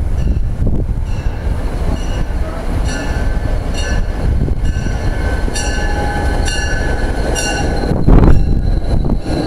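Commuter train running past with a steady low rumble. A ringing tone repeats about twice a second for most of the stretch, and there is a loud burst of noise a little after eight seconds.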